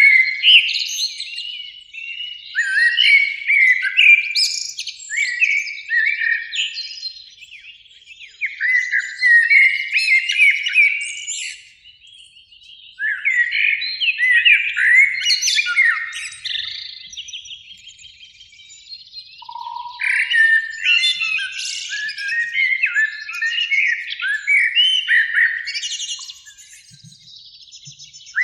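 Eurasian blackbirds singing: bursts of song phrases a few seconds long, separated by short pauses.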